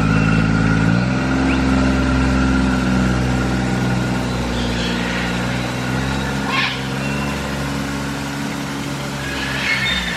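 An engine running steadily at a low, even pitch, which steps up slightly about a second in, with a few brief high chirps over it.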